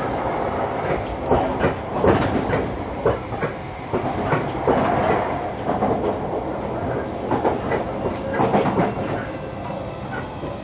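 Running sound heard inside a JR Kyushu 305 series electric train under way: wheels clattering over the rails in irregular knocks with a steady rumble, the clatter easing a little near the end.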